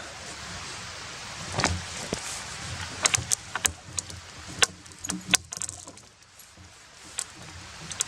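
Scattered knocks, cracks and clatters of dead cedar wood being handled after sawing, with rustling between them; the knocks come thickest in the middle.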